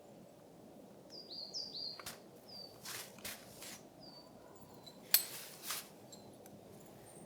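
A small bird gives a series of short, high chirps, each falling in pitch, over a steady low outdoor hiss. Several sharp clicks or cracks break in among them, the loudest about five seconds in.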